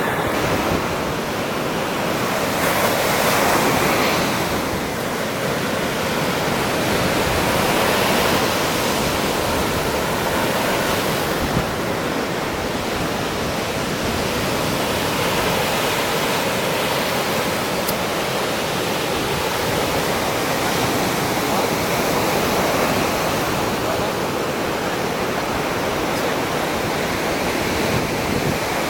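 Sea waves breaking and washing up on the shore, a steady rushing that swells and eases every few seconds, with wind buffeting the microphone.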